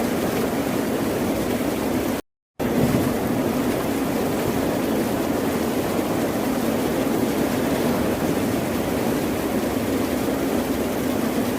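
Steady rush of ocean surf, cut off by a sudden, brief dropout to silence about two seconds in.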